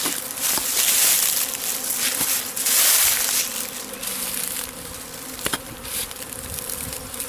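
Honeybee swarm buzzing steadily, with loud crunching and scraping of digging through dirt and roots in the first half and a couple of sharp clicks later.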